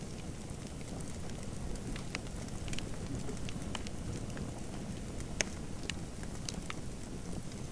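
Wood fire crackling in a fireplace: a steady low rumble with irregular sharp pops and snaps, one louder pop about five and a half seconds in.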